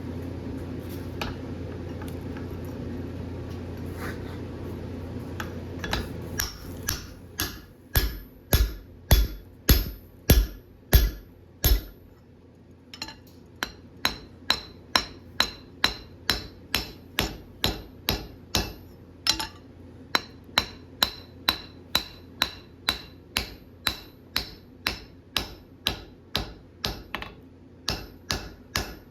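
A steady rushing noise runs for about six seconds, then a hand hammer starts striking hot steel bar on an anvil at about two blows a second. The first blows, up to about twelve seconds in, are heavy and deep. After a brief pause the blows are lighter, each followed by a bright anvil ring.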